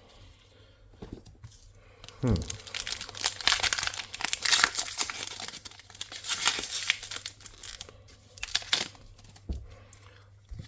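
Foil booster pack wrapper crinkling and tearing open, a dense crackly rustle that starts about two seconds in and dies down near the end.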